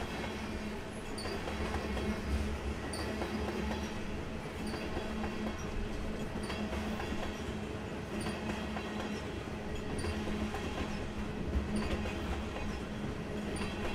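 Loaded crushed-stone hopper cars of a freight train rolling past, steel wheels rumbling steadily on the rails, with a short high squeak or tick repeating about once a second as each car goes by.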